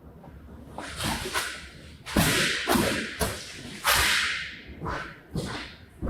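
A series of brisk swishing strokes of a cleaning tool worked across a rug, roughly one or two a second, the loudest in the middle, some with a low thud as the tool lands.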